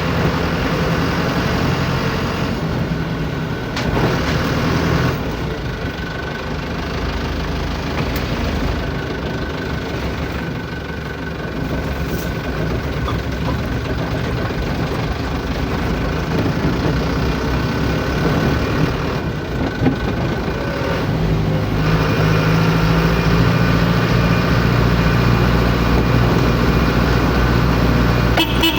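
Truck engine running steadily, its low note getting heavier and louder about twenty-two seconds in.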